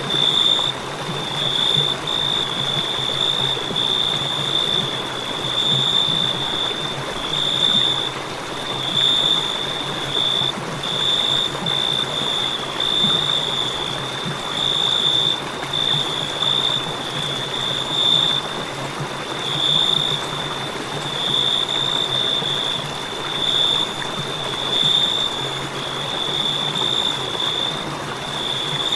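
Crickets chirping: a continuous high-pitched trill that breaks briefly about once a second, over a soft steady hiss.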